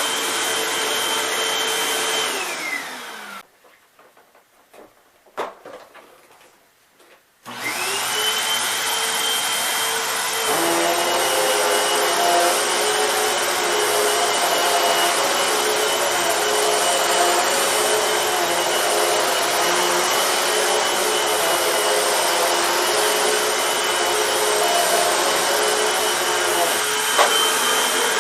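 Hoover WindTunnel MAX upright vacuum cleaner running with a steady motor whine, then switched off about two seconds in and winding down, falling in pitch. After a few seconds of near quiet with a couple of knocks, it is switched back on and spins up, rising in pitch. About ten seconds in a deeper hum joins, and it runs steadily; it is running normally, its noisy brush-roller compartment fault fixed.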